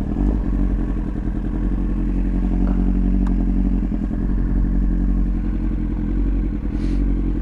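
Kawasaki ZX-9R's inline-four engine running steadily at low revs, with a few faint clicks over it.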